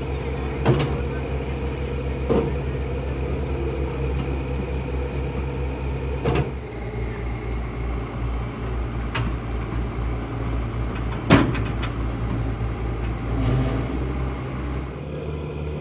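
A heavy truck engine running steadily, its note shifting about six seconds in and again near the end. Several sharp knocks or clanks sound over it, the loudest a little past the middle.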